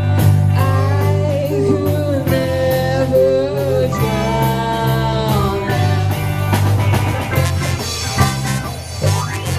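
A rock band playing a song: a singer holds long, wavering notes over guitar, bass and drums.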